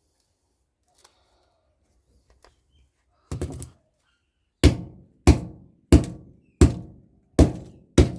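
A short rattle, then six sharp strikes about two-thirds of a second apart on a scrapped microwave oven transformer, knocking the plastic off it.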